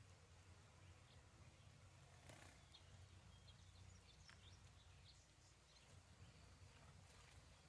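Near silence: a faint steady low hum with scattered faint, short high chirps.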